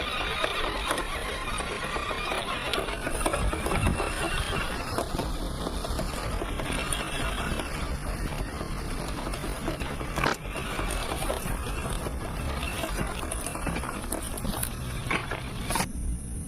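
Small 1/18-scale RC crawler running over rough ground: its electric motor and gears whir while the tyres crunch and knock over dirt and stones. The sound changes abruptly near the end.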